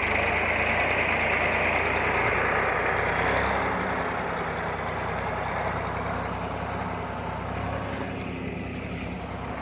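Tractor engine running steadily, easing slightly in level after about four seconds.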